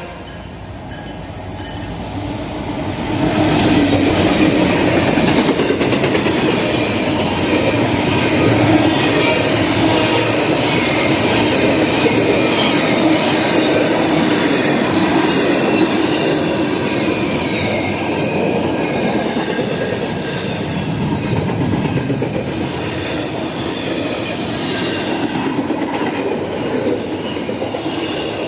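CN intermodal freight train rolling past, its wheels clattering on the rails with a faint high wheel squeal. The noise grows louder about three seconds in and then holds steady.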